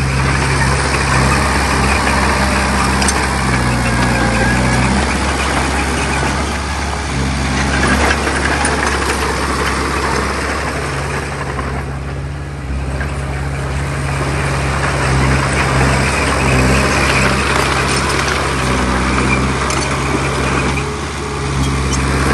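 Heavy diesel engine of earth-moving machinery running steadily under load, with a dense, rough clattering noise over it. It eases briefly about halfway through and again near the end.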